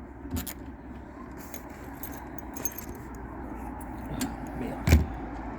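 Lock keys and a door lock being handled, giving a few small metallic clicks, with a sharper knock about five seconds in. A steady hum of passing road traffic runs underneath.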